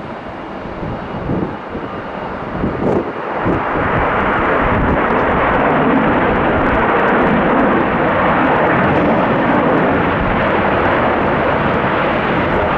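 Boeing 737-800's CFM56 jet engines at takeoff power. The roar swells about three and a half seconds in and then holds loud and steady. Before the swell, wind gusts buffet the microphone.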